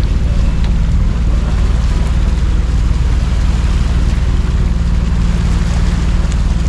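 Steady wind on the microphone and water rushing along the hull of a sailing boat underway, over a constant low hum.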